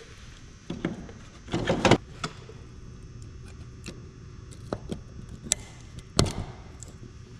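Scattered metal clinks and knocks of hand tools and parts being handled, with a loud cluster of knocks about one and a half to two seconds in and a few single sharp clicks later.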